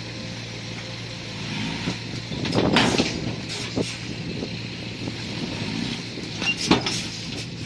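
Diesel bulldozer running steadily under load, its engine a low steady hum. Two loud stretches of metallic clanking and grinding from the tracks and blade come about a third of the way in and again near the end.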